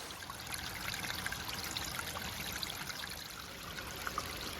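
Creek water trickling and splashing: a steady wash of flowing water with many small splashes and drips through it.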